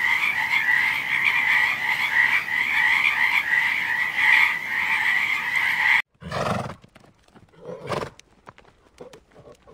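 A dense, pulsing frog chorus, many frogs calling at once, which cuts off abruptly about six seconds in. After it come a few separate short sounds from a horse, snorts and hoof knocks.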